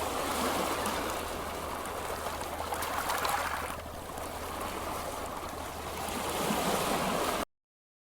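Ocean surf washing onto a beach: a steady hiss of waves that swells about three seconds in and again near the end, then cuts off suddenly.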